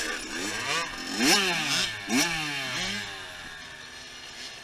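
Dirt bike engine revving hard, its pitch climbing and dropping sharply two or three times in the first few seconds, then falling away to a quieter steady run.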